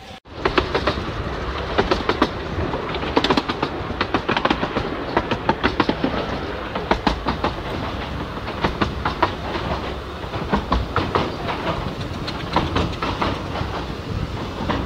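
Carriage of a 15-inch-gauge miniature railway train in motion: a steady rumble from the running gear with a dense, irregular run of wheel clicks and clatter over the rail joints.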